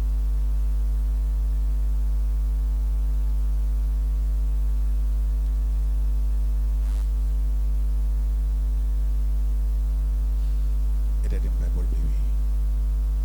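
Steady electrical mains hum, a low buzz at about 50 Hz with a stack of steady overtones, unchanging throughout and louder than anything else. A faint voice comes through briefly near the end.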